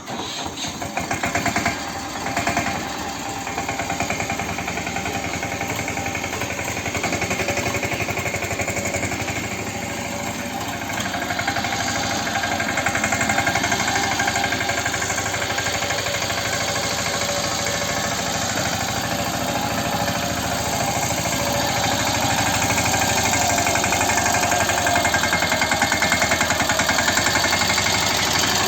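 Mahindra 215 mini tractor's single-cylinder diesel engine running with a fast, steady knocking beat, uneven for the first couple of seconds and a little louder in the last several seconds.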